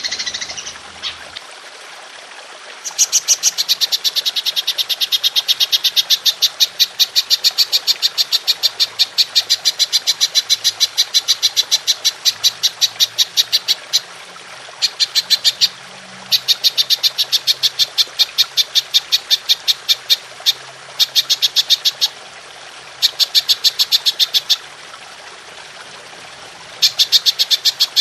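Belalang emas (golden grasshopper) calling: long trains of rapid, high-pitched chirping pulses in repeated bouts. The longest bout runs about ten seconds, and shorter bursts follow with brief pauses between them.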